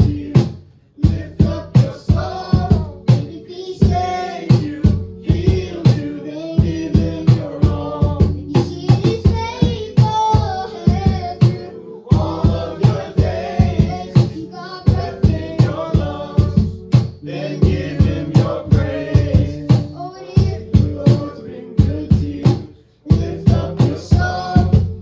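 Live worship band music with a steady drum beat and sustained instruments.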